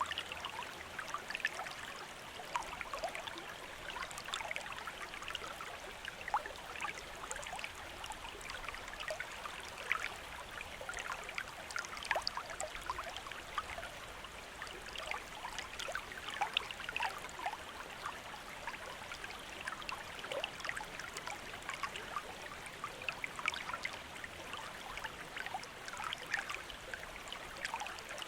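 A small stream or river flowing over rocks, with steady babbling and trickling and many small irregular splashes.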